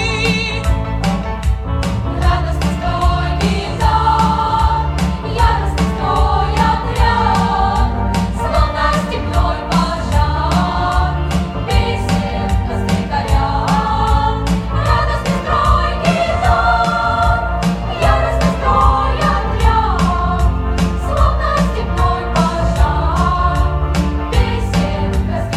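Children's choir singing a Russian song in unison over an instrumental accompaniment with a steady, driving beat.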